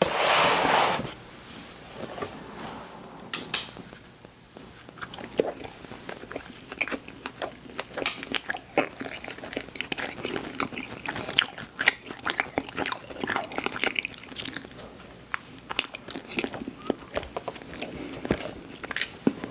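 Close-up mouth sounds of crunchy cookies being bitten and chewed: a loud crunch in the first second, then a long run of crisp, irregular crunches and chewing.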